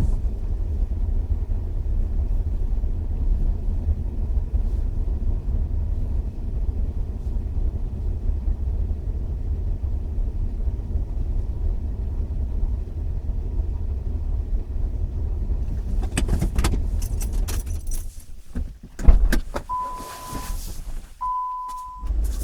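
Steady low rumble of a car idling. About sixteen seconds in come a run of clicks and knocks and one loud thump, then two short electronic beeps at the same pitch near the end.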